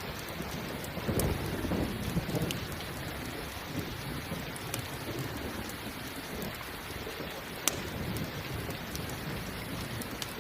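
Steady rain, with a low roll of thunder about a second in that fades after a couple of seconds. A few sharp, isolated pops from a crackling campfire stand out over the rain.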